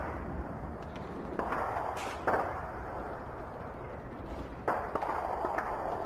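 Simulated bombardment: sharp bangs and thuds over a continuous low rumble, with a bang at the start, a cluster about two seconds in, and more near the end.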